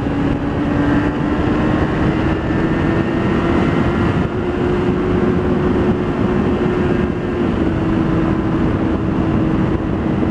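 Motorcycle engine running at a steady speed under way, its exhaust note a steady drone that rises slightly over the first few seconds and drops a little about seven seconds in, over a rush of wind noise.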